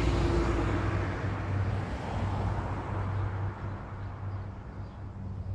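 A car driving: a steady low engine hum under road noise. A rush of noise is loudest over the first two or three seconds and then fades away.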